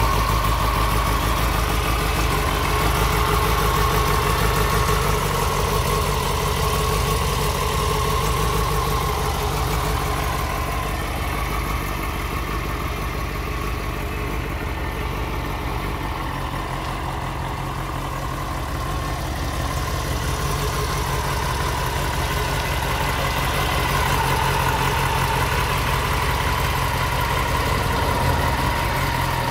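Yamaha FZ6 N's 600 cc inline-four engine idling steadily, a little quieter in the middle.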